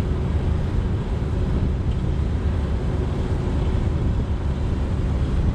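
Steady low rumble of a diesel semi truck's engine running.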